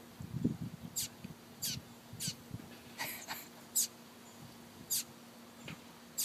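Tufted titmouse fledgling giving a string of short, thin, high chirps, each sliding down in pitch, roughly one a second.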